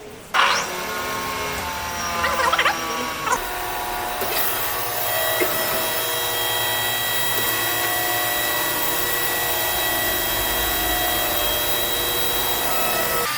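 An electric power tool running with a steady whine. In the first few seconds it starts suddenly and its pitch falls, and from about four seconds in it runs at a steady speed.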